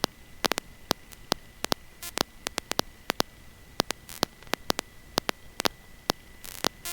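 Electrical static on the aircraft's intercom audio: irregular sharp crackling clicks, several a second, over a low hiss and a thin steady high whine. The engine is not heard.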